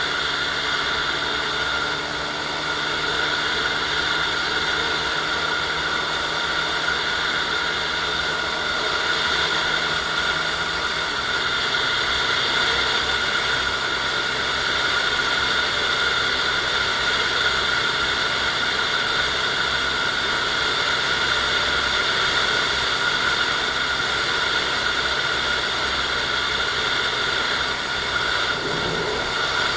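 Honda Super Cub 110i's small single-cylinder engine running steadily under way, under a steady rush of wind and road noise. The engine note shifts about a third of the way in.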